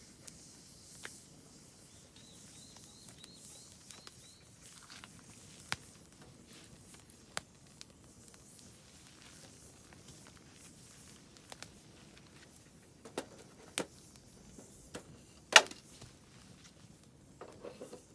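Oak firewood burning in a campfire, giving sparse sharp crackles and pops, the loudest about three-quarters of the way through. A bird gives a quick run of about eight short high chirps about two seconds in.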